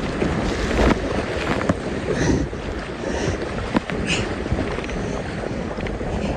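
Rushing river water around a kayak running a rapid, with wind buffeting the microphone in an even, steady rush. A few sharp knocks come through, most clearly near the middle.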